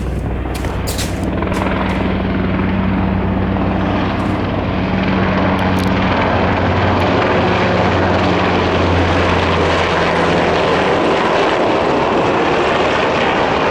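US military aircraft flying low overhead with a loud, steady engine noise that builds through the first several seconds. Its low engine tones dip slightly in pitch past the midpoint as it passes.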